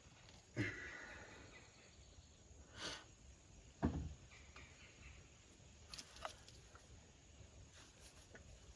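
A few scattered knocks and clinks of metal brake parts and tools being handled. One clink about half a second in rings briefly, and a heavier knock comes near the middle.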